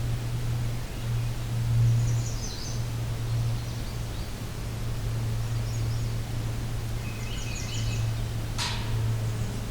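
Songbirds singing faint, high, short phrases a few times over a steady low hum, with one sharp, short sound about eight and a half seconds in.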